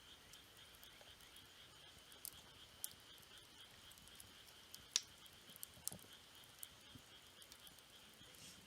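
Faint crackling of a wood campfire: scattered sharp ticks and one louder pop about five seconds in. Behind it runs a steady, high-pitched insect trill.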